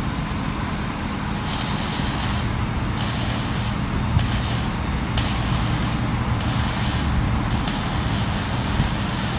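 Welder laying beads on exhaust pipe: a sizzling hiss that starts about a second and a half in and comes in about six bursts with short pauses between them, over a steady low hum.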